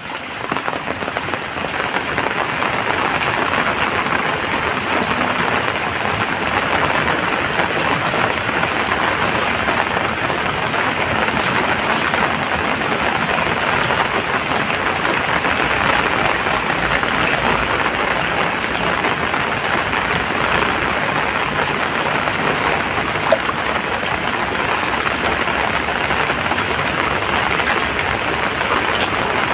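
Heavy rain falling steadily, a dense even hiss of drops that builds slightly over the first couple of seconds and then holds.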